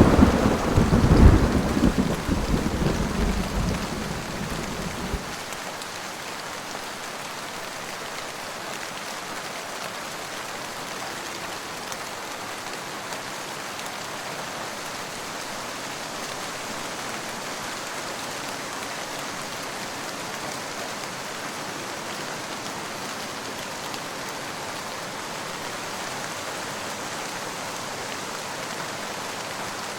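Thunder crack and rumble over steady heavy rain, the rumble dying away about five seconds in, then an even hiss of rain falling.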